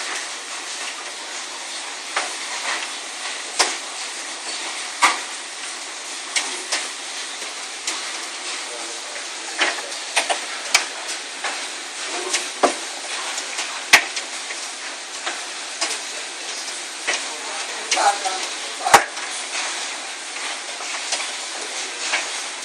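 Hailstorm: a steady rush of rain and hail, broken by sharp, irregular knocks of large hailstones, golf ball to baseball sized, striking every second or so, some much louder than others.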